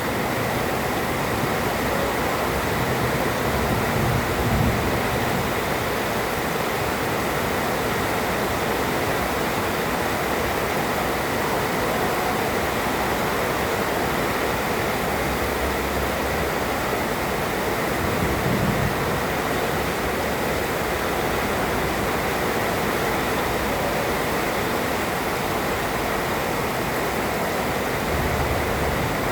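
Heavy rain pouring steadily, an even hiss of downpour with a few brief low swells.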